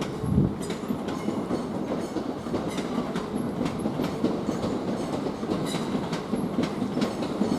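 Southeastern Class 465/466 Networker electric multiple unit running through the station, its wheels clattering over rail joints in an irregular series of clicks over a steady rumble.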